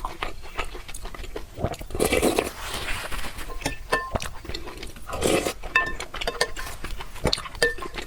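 Close-up eating sounds: noodles slurped in two strong bursts, about two and five seconds in, between wet chewing sounds and small clicks and clinks of chopsticks or cutlery against the bowl.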